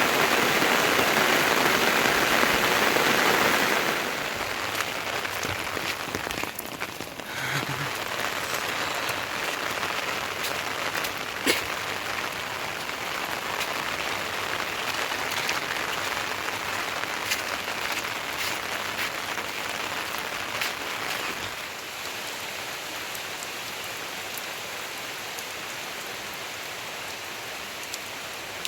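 Rain falling steadily, with scattered drops ticking sharply on some surface. Heavier for the first few seconds, then a step quieter, and quieter again about three quarters of the way through.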